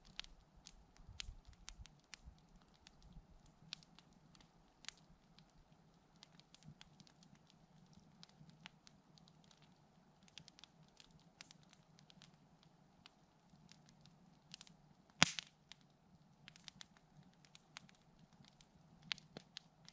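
Wood campfire crackling faintly, with irregular small pops and one sharp, louder pop about fifteen seconds in.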